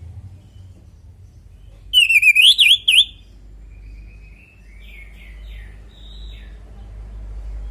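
Orange-headed thrush singing: a loud, quick run of whistled notes sweeping up and down, about a second long, starting about two seconds in, then a few fainter, shorter phrases. A low steady rumble lies underneath.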